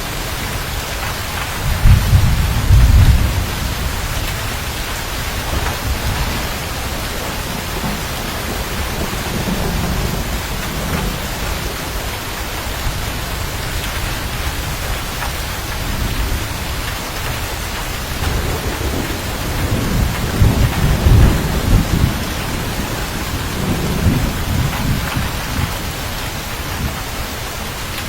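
Steady rain with rolls of low thunder: the loudest rumble comes a couple of seconds in, and further rumbles swell around the middle and several times in the last third.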